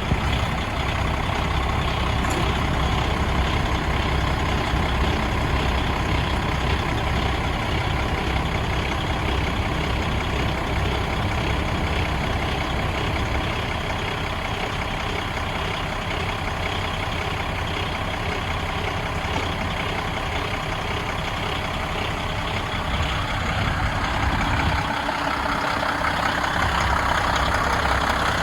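The diesel engine of a 2012 Kenworth T800 quad-axle dump truck running steadily, growing louder and brighter near the end.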